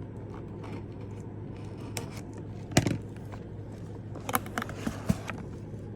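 A subscription box and its packaging being opened by hand: a few sharp clicks and scrapes, the loudest about three seconds in, over a steady low hum.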